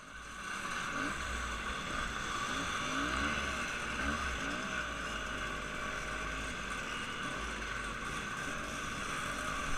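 Motor engines running with a steady low rumble, with a few short rises and falls in pitch as engines rev.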